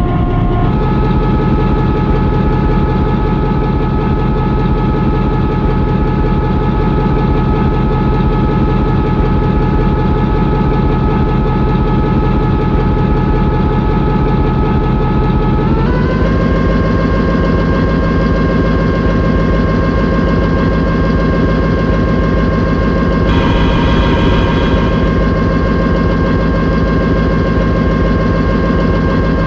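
Locomotive engine running steadily and loud, its pitch stepping up about a second in and again about halfway through as the engine speed is raised.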